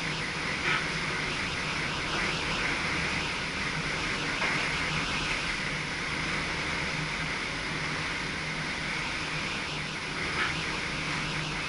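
Steady running noise of an SGM Sprinter electric multiple unit heard inside its driver's cab, with a constant hum and hiss and two brief sharper sounds, one about a second in and one near the end.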